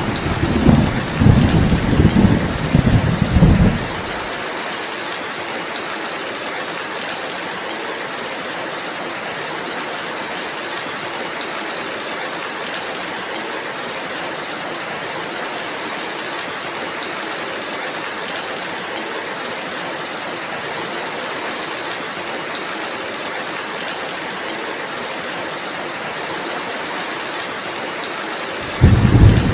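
Steady rain falling, an even hiss, with a low rumble of thunder in the first few seconds that dies away about four seconds in, and thunder rumbling again near the end.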